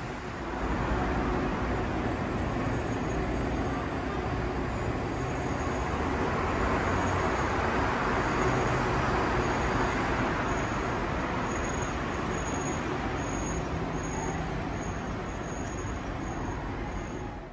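SBB passenger coaches of a departing train rolling past along the platform, a steady rumble of wheels on rails that comes up about half a second in and fades out at the end.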